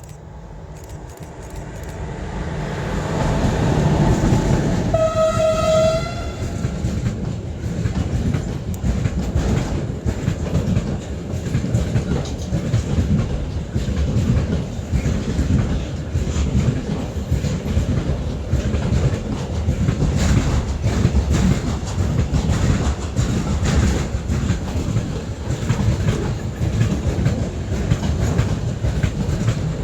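A train approaching and sounding its horn once for about a second, then passing with a steady rumble and the clickety-clack of wheels over rail joints.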